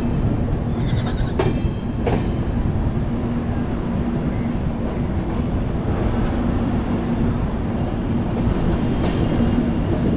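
Shatabdi Express passenger train running along the track: a steady rumble with a constant low hum and a few sharp wheel clicks in the first couple of seconds.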